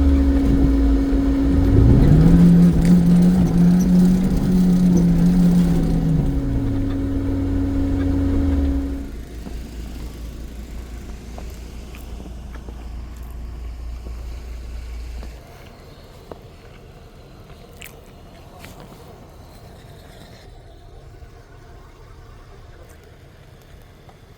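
Off-road vehicle engine revving up, holding high revs for a few seconds and easing back down, over a steady whine. About nine seconds in the sound drops away, leaving quieter low running that fades further about fifteen seconds in.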